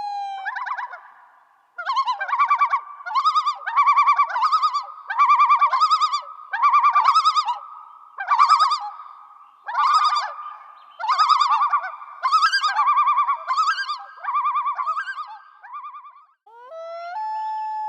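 An animal calling over and over: about a dozen short calls, each a quick rattle of pulsed notes, roughly one a second.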